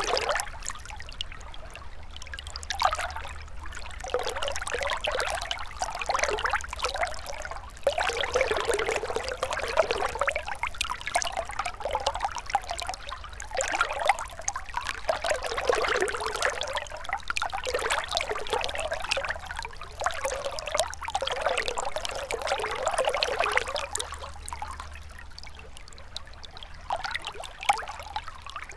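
Gentle river flowing, its water trickling and splashing steadily in uneven swells that rise and fall every few seconds.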